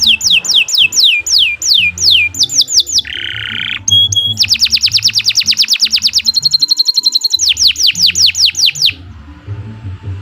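Domestic canary singing a long rolling song: fast trills of repeated falling whistled notes, broken by a short buzzy note and a steadier high trill, until the song stops about nine seconds in.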